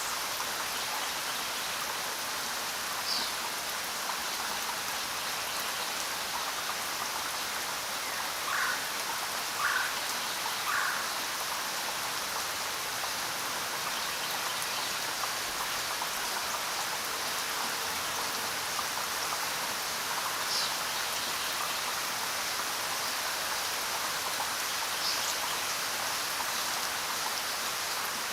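Steady rain falling, an even hiss of drops. A few short, higher sounds stand out over it: three in quick succession about nine to eleven seconds in, and single ones now and then.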